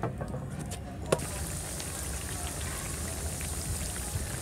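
Wood fire crackling in a clay chulha, then, after a sharp click about a second in, potato wedges sizzling steadily as they deep-fry in hot oil in a kadai.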